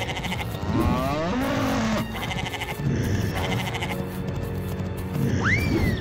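Cartoon background music with animal bleating sound effects, which pulse several times.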